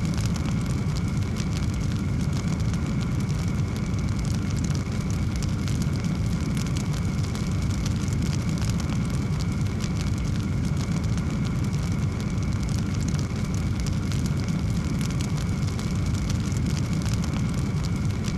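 Wood fire in a fireplace burning steadily: a constant low rumble of flames with many small crackles and pops scattered throughout.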